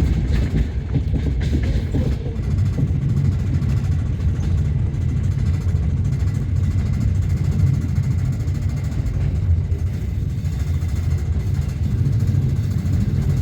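Passenger train running along the line, a steady low rumble of the carriage on the rails heard from inside the car.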